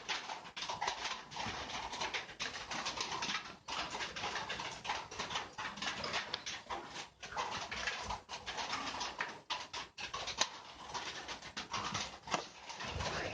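A flock of small seed-eating field birds chirping and chattering, with many short calls overlapping in a dense stream.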